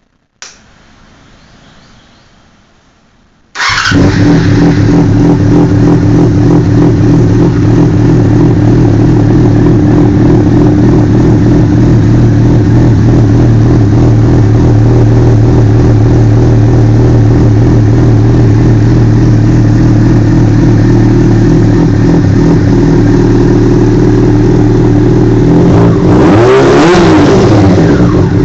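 2005 Yamaha FZ6's 600cc inline-four running through a Leo Vince SBK Evolution slip-on exhaust with the baffles removed. After a click and a faint whir, the engine catches about three and a half seconds in and idles steadily and loudly. Near the end the throttle is blipped, and the revs rise and fall.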